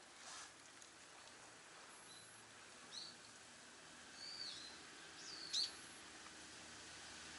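A few short, high bird chirps and whistled calls over a faint outdoor hiss, one call dipping and rising in pitch, the loudest a sharp chirp about five and a half seconds in.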